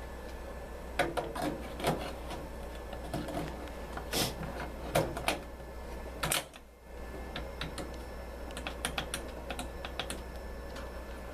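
Scattered, irregular clicks and light knocks of hands and tools on the parts of a commercial embroidery machine, over a steady low hum; there is no even stitching rhythm.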